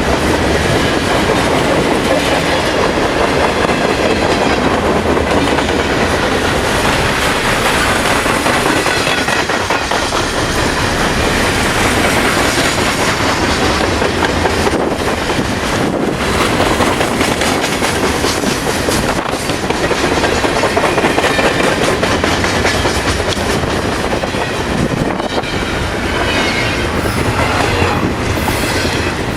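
Long CN double-stack intermodal freight train rolling past close by: a steady rumble of cars with wheels clacking over the rail joints. A faint wheel squeal rises and falls near the end.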